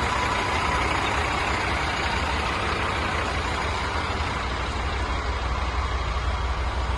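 Scania P310 truck's five-cylinder diesel engine idling steadily, with an even low rumble.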